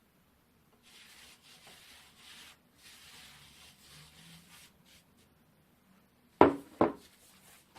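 Soft rubbing of hands spreading cornstarch over a work table, then two sharp knocks on the table about half a second apart.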